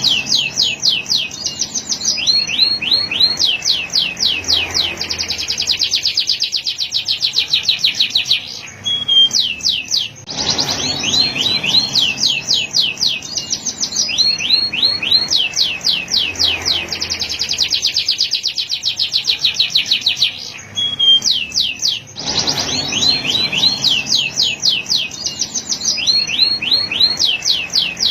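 Male canary singing a continuous song of rapid, repeated falling whistles and fast trills. The same stretch of song recurs about every twelve seconds, starting over abruptly each time, as in a looped recording.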